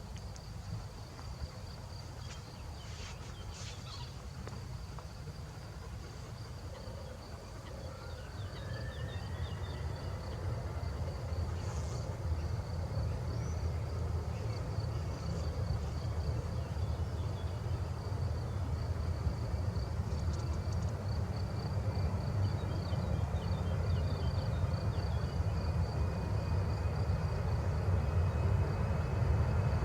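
Insects chirping in a steady high pulsing tone over a low rumble. From about eight seconds in, a distant jet aircraft's engine whine grows slowly higher and louder as it approaches.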